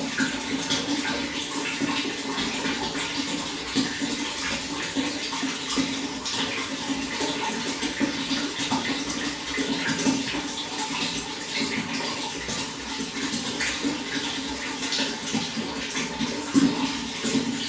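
Running water flowing steadily, a continuous splashing rush with a low gurgling note underneath.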